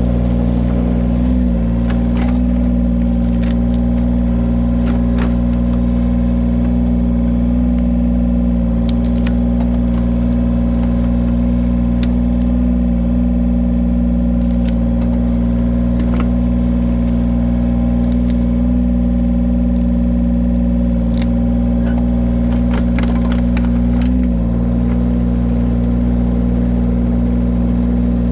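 The engine of a firewood splitting machine running steadily under load. Its pitch dips briefly about a second in and again near the end, with scattered sharp clicks and cracks over the top.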